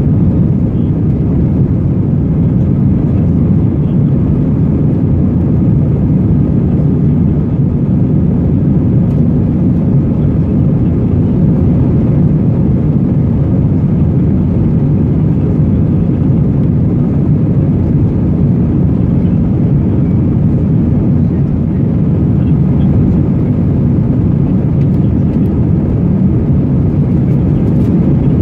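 Steady roar of engines and airflow heard inside the cabin of an Airbus A321 airliner, a deep, even drone that does not change.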